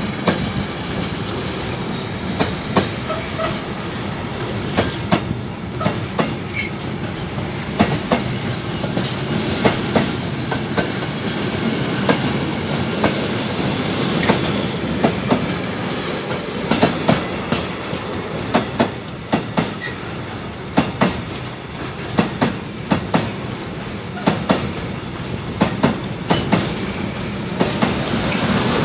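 Container-loaded freight wagons rolling past: a steady rumble, with the wheels clacking over the rail joints in quick groups of sharp clicks, one group after another.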